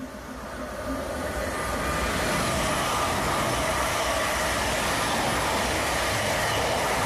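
Electric multiple-unit passenger train running along the track close to the platform. Its noise builds over the first two seconds, then holds as a steady loud rushing sound of wheels on rail while the carriages go by.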